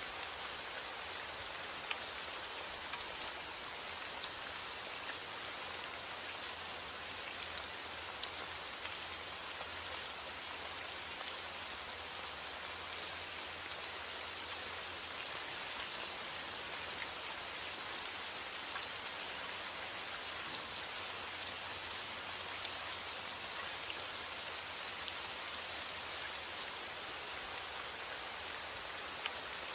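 Heavy rain falling steadily: a dense, even hiss with sharper single drop hits scattered through it.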